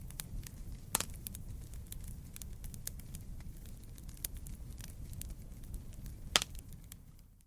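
Wood campfire burning with a steady low rumble and frequent crackles, with two sharp, loud pops, one about a second in and one near the end. The sound fades out right at the end.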